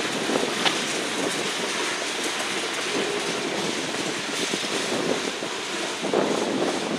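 Freight train's tank cars and boxcars rolling past, a steady rumble and hiss of steel wheels on rail with an occasional sharp click from the wheels, swelling a little near the end.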